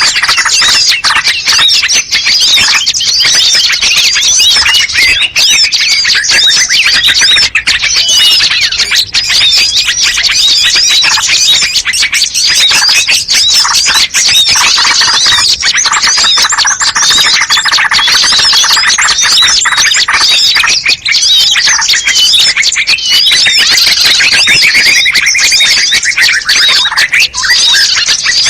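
Dense, continuous chorus of many small songbirds chirping, trilling and squawking at once: a mixed bird-lure (pikat) call track meant to draw in birds such as bulbuls and prinias. It is loud throughout with no pause.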